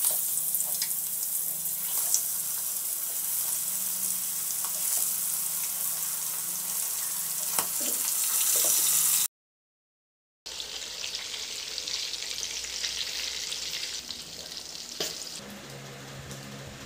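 Eel pieces frying in hot oil in an aluminium wok: a steady loud sizzle with scattered pops. It cuts off suddenly about nine seconds in, and a quieter sizzle follows after a second's silence.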